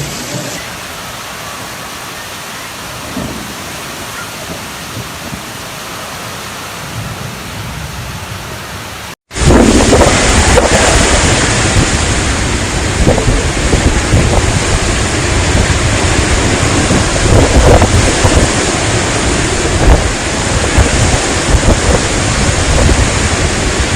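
Heavy rain pouring steadily. About nine seconds in, the sound breaks off for an instant and comes back as a much louder downpour with a deep rumble underneath.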